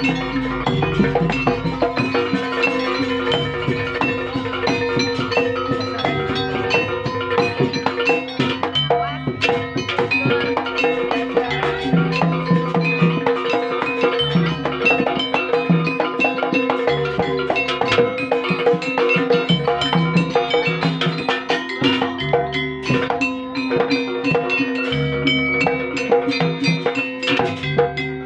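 Live gamelan-style ensemble music: ringing metal-keyed percussion and sustained gong-like tones over a continuous pattern of drum strokes.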